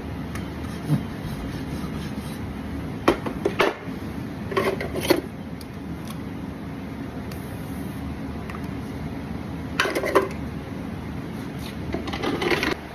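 A few short clusters of scraping strokes from a farrier's tools on a horse's hoof, over a steady low hum.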